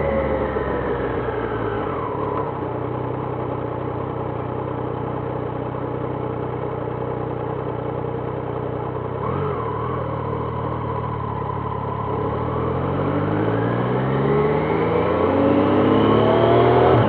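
Triumph Trident 660's inline three-cylinder engine dropping in revs as the bike slows. It then idles steadily for about ten seconds, with one short blip midway, and revs up as the bike accelerates away near the end.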